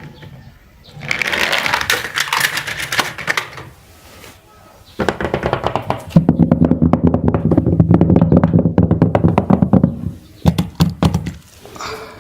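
A small mechanism clicking and rattling rapidly in two stretches, the second and longer one with a steady low hum underneath.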